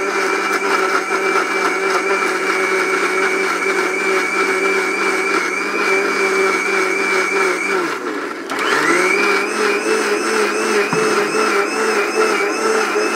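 1400-watt commercial blender motor running at full speed with a steady high whine, chopping large pieces of ginger and garlic in water into paste. About eight seconds in it is switched off and winds down, then switched back on half a second later and spins straight back up to speed.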